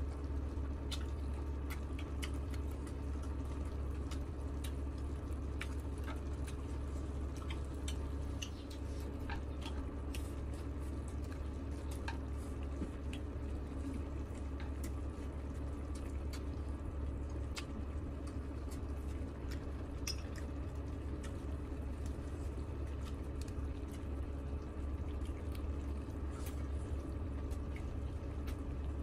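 Close-up wet eating sounds: chewing and lip smacking on stir-fried beef and chewy octopus, with scattered small clicks, over a steady low hum.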